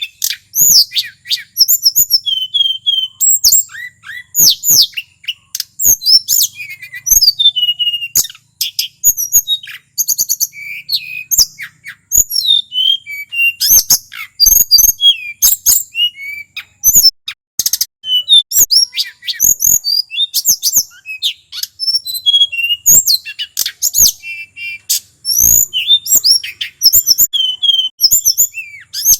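Male tledekan gunung (hill blue flycatcher) singing continuously: a rapid, unbroken string of varied whistled phrases, quick trills and sharp sweeping notes with hardly a pause.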